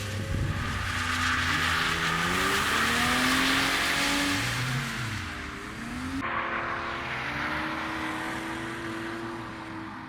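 Drift car engine revving up and down as tyres squeal through a slide. About six seconds in the sound cuts abruptly to a car holding steadier revs with fainter tyre noise.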